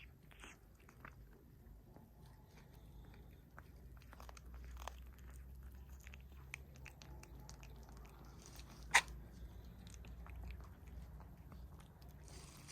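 A cat eating, with faint, scattered crunching and chewing clicks. One sharp click about nine seconds in.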